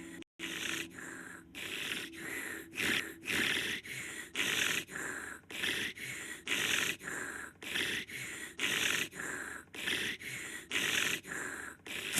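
Rhythmic, repeated airy breaths like gasps, about two a second, kept up for the whole stretch after a brief cut near the start.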